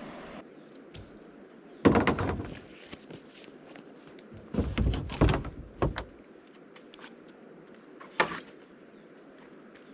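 Several heavy thumps and knocks: a loud one about two seconds in, a cluster around five seconds, and one more near the end.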